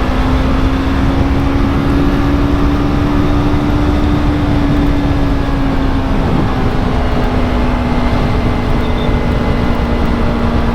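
Yamaha R3's parallel-twin engine running at steady high revs under acceleration to keep pace with a 600, its pitch climbing slightly and then easing a little midway, under heavy wind rush on the helmet microphone.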